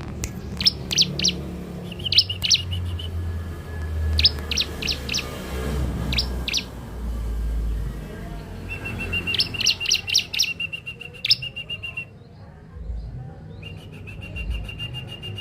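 Young bar-winged prinia (ciblek) calling: groups of short, sharp high chirps, then in the second half two long, steady trills of a few seconds each.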